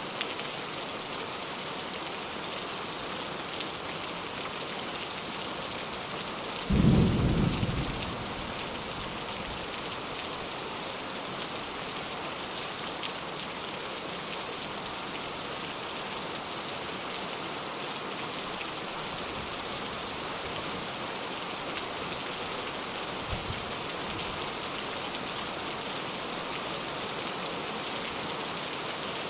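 Steady rain hiss, with a short low rumble of thunder about seven seconds in.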